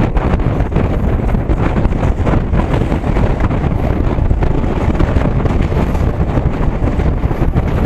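Wind buffeting the microphone at an open door of a moving train, over the train's steady running noise and irregular wheel-on-rail clatter.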